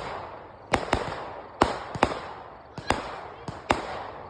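Consumer aerial fireworks going off in a rapid series of sharp bangs, roughly two a second and unevenly spaced, each trailing off before the next.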